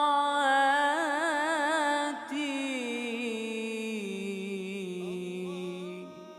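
A solo male voice chanting an Islamic ibtihal, holding a long wordless melisma with quick ornamental wavers in pitch, then sliding slowly down onto a steady low note that fades near the end.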